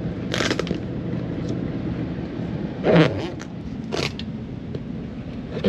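Running commercial air-conditioning unit: a steady low hum from the compressor and condenser fan after recharging with refrigerant. Brief rustling handling noises come through, the loudest about three seconds in.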